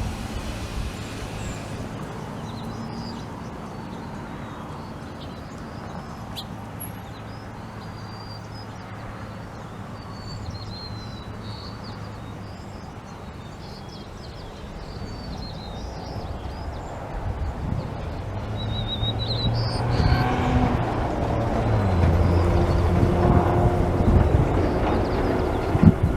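Small birds chirping over a low, steady engine hum. The hum grows louder over the last several seconds.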